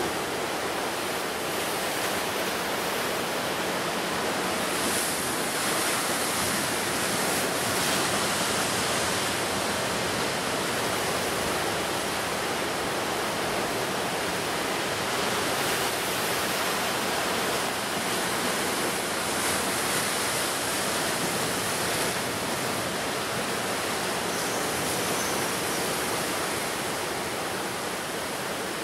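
Sea surf on a wild coast: a continuous rushing wash of waves, swelling now and then as a wave breaks.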